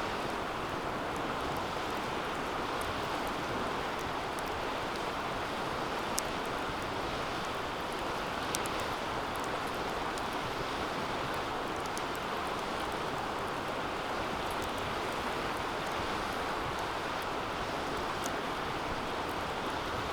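Wood fire burning in a DOD Mecha Moe Fire 2 fire pit: a steady rushing of flames with scattered small crackles and two louder snaps, about six and eight and a half seconds in.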